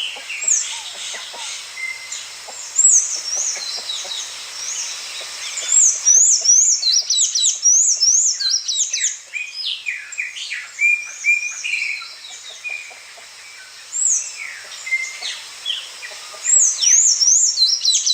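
Several small songbirds chirping and singing at once, with quick series of high, rising-and-falling notes overlapping one another; the chorus grows busier about a third of the way in.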